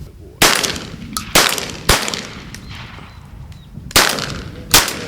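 Shotgun shots at flying pigeons: four loud reports in two pairs about three seconds apart, each dying away in a short echo, with a fainter sharp click between the first pair.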